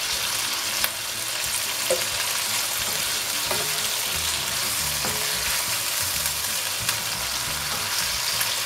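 Chicken livers and sliced onions sizzling steadily in hot oil in a non-stick karahi, being fried to cook off their rawness. A spatula stirs them, with a few light taps on the pan about one and two seconds in.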